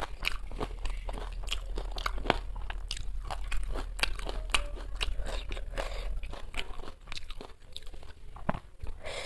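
Close-up crunching and chewing of crisp fuchka (panipuri) shell pieces: many sharp, irregular crunches.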